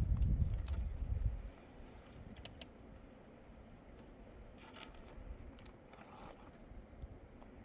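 Low rumble of wind buffeting the microphone for about a second and a half, then a quieter stretch with a few faint scattered clicks.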